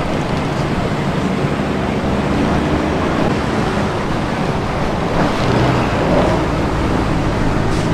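A vehicle engine running steadily under a noisy rumble of wind or road noise.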